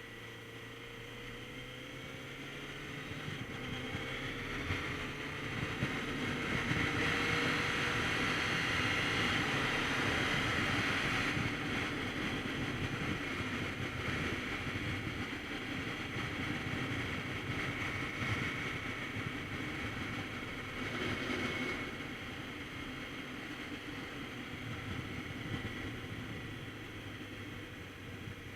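Wind rushing over the microphone at riding speed on a Kawasaki Z900RS Cafe, with the bike's inline-four engine running under it and rising in pitch early on. The wind swells over the first several seconds, stays strong until about a third of the way through, then eases, with a brief gust later.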